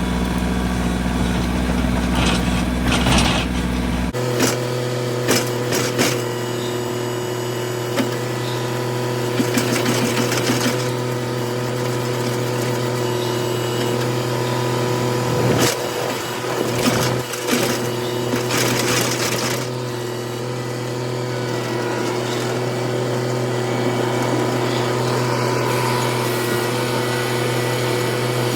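Small tractor's engine running at a steady speed, its note stepping up abruptly about four seconds in, with a few knocks and rattles over it.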